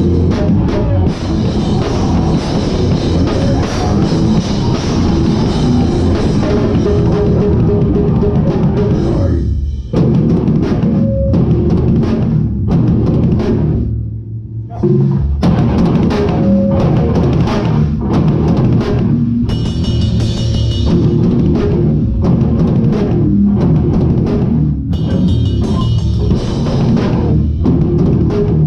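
Hardcore band playing live, with the drum kit up close and loudest: fast kick and snare under distorted guitars and bass. The band stops short for about a second near the middle, leaving only a low held note ringing, then crashes back in.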